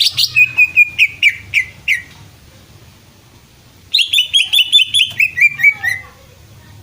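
Cucak ijo (green leafbird) singing: two quick runs of sharp, high chirping notes, each about two seconds long and stepping down in pitch, with a pause of about two seconds between them.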